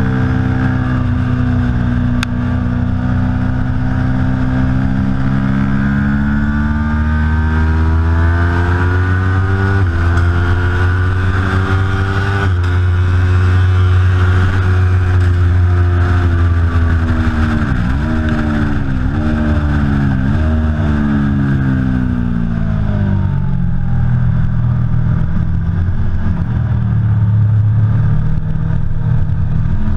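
Aprilia Tuono V4 Factory's V4 engine being ridden hard on track. The revs climb with gear changes about ten and twelve seconds in, then three quick downshifts come close together around twenty seconds. The engine pulls at lower revs for a while, then climbs again near the end.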